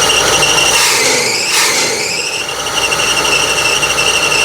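Oldsmobile 455 V8 of a 1976 GMC motorhome running after a tune-up, with a steady high-pitched whistle over it. About a second in the whistle falls in pitch and fades, then climbs back and holds again by about two and a half seconds.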